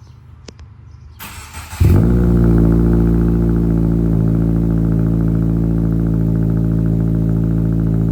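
A 2023 Subaru WRX's turbocharged flat-four engine, fitted with an aftermarket exhaust, starting up: a couple of clicks and a brief crank, then it catches just under two seconds in with a rev flare that falls away into a steady idle.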